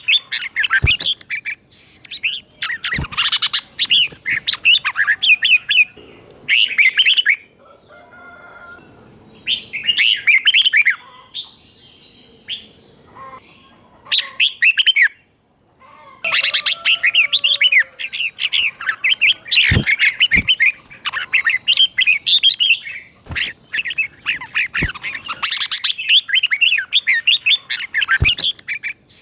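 Red-whiskered bulbul singing loud bursts of quick, warbling phrases, with short pauses between them and a softer stretch near the middle. A few sharp knocks sound between the phrases.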